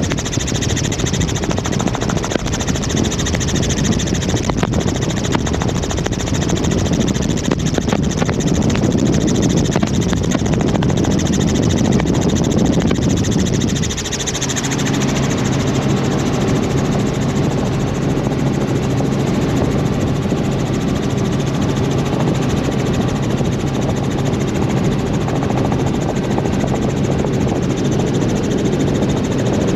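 Helicopter in flight heard from on board: the loud, continuous drone of rotor and engine. About halfway through it dips briefly, then settles into a steadier hum with an even low tone.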